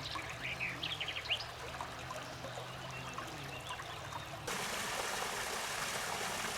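Water trickling and running in a stream, with a few short high chirps in the first second and a half. About four and a half seconds in, the water sound becomes louder and fuller.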